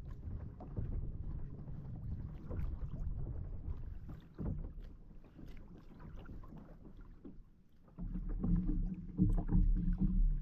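Water and wind noise on a fishing kayak, with scattered small knocks and clicks of handling. About eight seconds in, a louder low rumble sets in.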